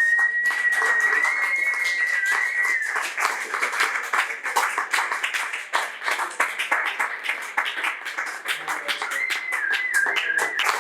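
Audience clapping and applauding. A high, wavering whistle is held for about three seconds at the start, and another comes near the end.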